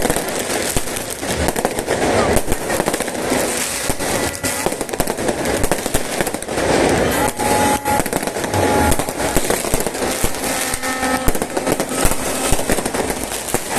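Fireworks bursting and crackling continuously, many sharp bangs in quick succession, over a crowd's voices.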